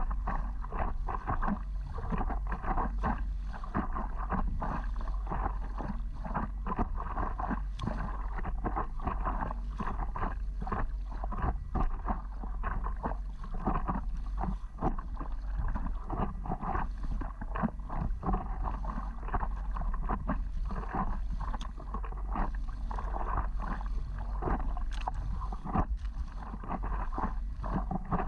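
Water splashing and sloshing against a stand-up paddleboard in a dense, irregular patter, with a steady low rumble underneath.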